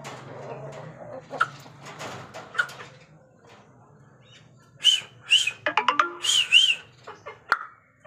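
Faint crunching and clicking on gravel, then about five seconds in a quick run of high, arching bird chirps.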